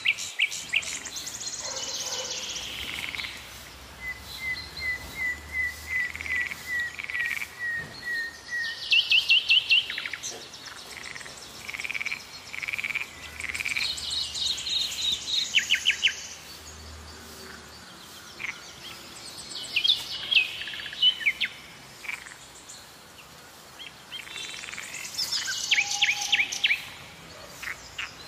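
Several birds singing and calling. About four seconds in comes a run of about ten short, evenly spaced, slightly falling notes, and quick trills and chirps come in bursts.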